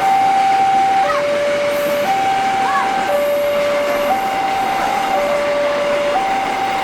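Railway level-crossing warning alarm sounding a two-tone high-low pattern, about one second on each tone, over a steady rushing noise.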